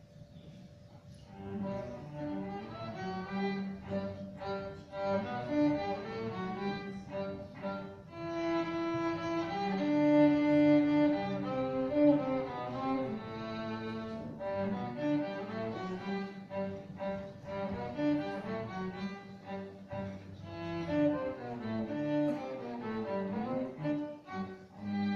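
Children's string ensemble of cellos and violins playing a short melodic piece, with bowed notes moving up and down under the tune; it starts about a second and a half in and stops near the end.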